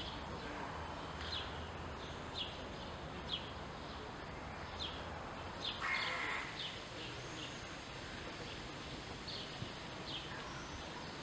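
Birds chirping: short, high chirps every second or so over a steady outdoor background hiss, with one brief louder rasp about six seconds in.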